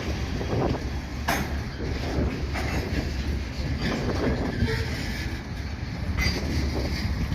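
Freight train with its cars: a steady low rumble with irregular sharp clanks and knocks from the cars, the loudest about a second in.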